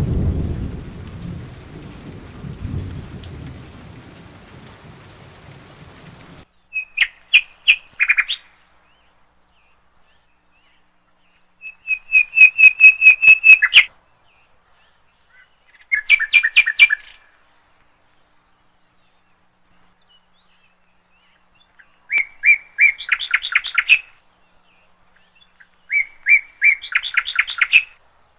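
Thunder rumbling low under the hiss of rain, fading and then cut off abruptly about six seconds in. After that, a songbird sings five short phrases of quick repeated notes, with silent gaps between them.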